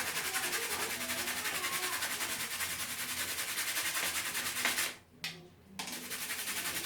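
Brush scrubbing toothpaste over small plastic Lego pieces in fast, even strokes, with a brief pause about five seconds in.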